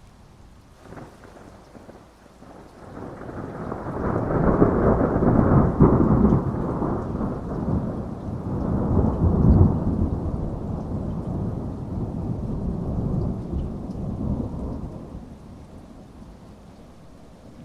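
Thunder rolling over steady rain: a faint crack about a second in, then a long rumble that builds, swells twice and fades out near the end.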